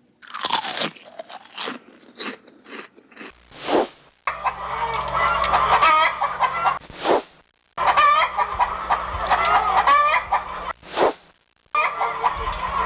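A flock of chickens clucking, many overlapping calls at once, in three stretches broken by short swishes and brief pauses. A few scattered short sounds come first.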